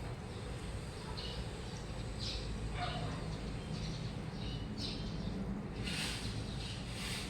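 Washing machine running, a steady low rumble with short higher-pitched swishes recurring every second or so.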